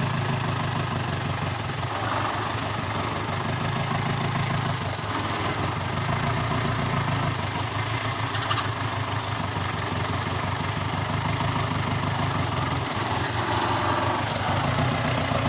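Toyota Land Cruiser hardtop's 14B four-cylinder diesel engine running steadily.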